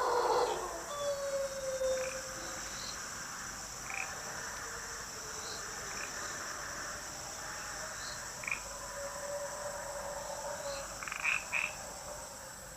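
Frogs calling in a night chorus: drawn-out tonal calls and short sharp notes repeating every second or two, with a louder cluster near the end, over a steady high insect hum.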